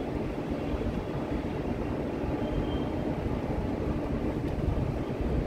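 Vande Bharat Express electric multiple-unit train running on the track: a steady, low-pitched running noise with no distinct clicks or horn.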